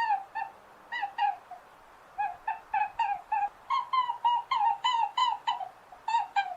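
Domestic fowl calling: a fast run of short, pitched calls, several a second, with a brief pause about two seconds in.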